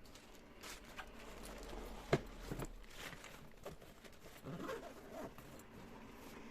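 Objects being handled: a scatter of light clicks and rustling, with one sharp knock about two seconds in.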